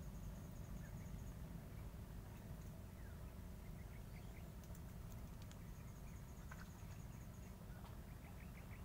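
Faint birds chirping over a low steady rumble, with two quick trills of short high chirps, one at the start and one about six seconds in.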